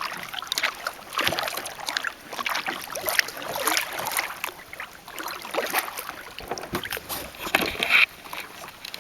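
Kayak paddle strokes: the blades dipping and pulling through the water about once a second, with splashing and dripping and a louder splash near the end.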